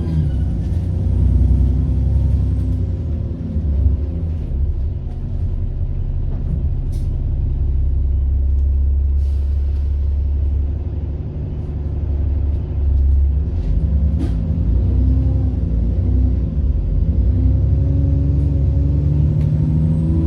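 Diesel bus engine heard from on board, with the high whine of its turbocharger. The engine note and the whine fall away over the first few seconds as the bus slows. It then runs low and steady with a few short hisses, like air-brake releases, and climbs again near the end as the bus pulls away.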